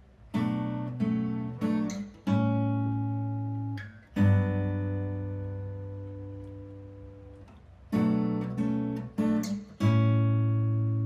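Acoustic guitar playing a slow chord introduction: a few chords struck in quick succession, then one left to ring out for about three seconds, then another run of chords.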